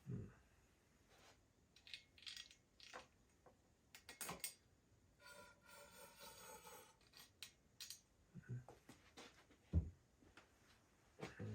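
Faint scattered clicks and knocks of small objects being handled, with a brief scrape about halfway and one heavier knock near the end.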